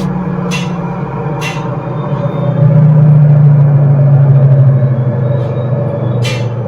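Worn left front wheel bearing of a Maruti Suzuki Wagon R droning as the raised wheel spins on a jack: a steady low hum that swells louder from about two and a half seconds in and eases again near the end. The drone is the sign of a bad front wheel bearing.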